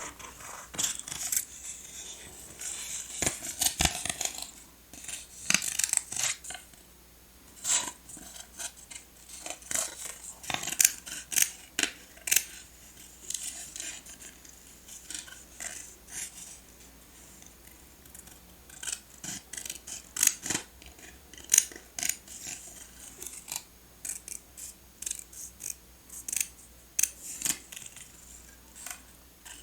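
Scissors cutting paper in short, irregular snips, with paper rustling and being handled, most densely in the first several seconds.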